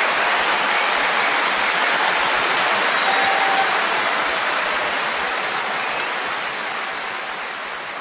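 Concert audience applauding after a live performance. The applause fades steadily over the second half.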